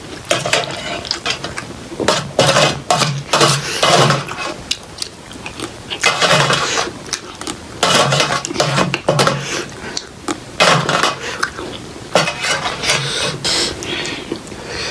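A person eating instant noodles close to the microphone: a run of slurps and chewing sounds, uneven and coming every fraction of a second, with utensils clinking against the dish.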